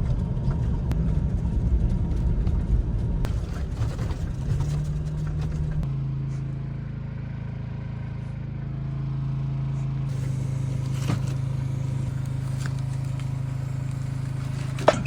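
Motor vehicle engine running: a rough low rumble for the first few seconds that settles into a steady low hum about six seconds in.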